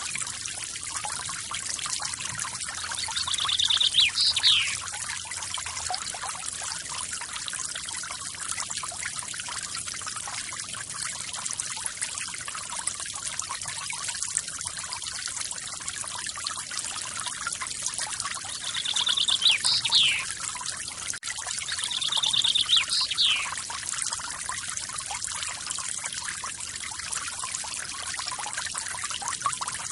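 Steady splashing rush of a forest waterfall. A bird calls three times over it, once a few seconds in and twice more about two-thirds of the way through, each call a short buzzy trill ending in quick falling notes.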